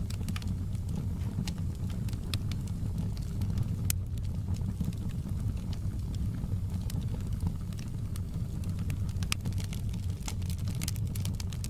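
Wood fire burning in a fireplace: a steady low rumble of the flames with scattered sharp crackles and pops from the burning logs, coming thicker near the end.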